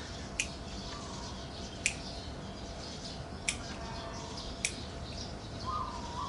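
Four sharp clicks about a second and a half apart, with birds chirping faintly in the background.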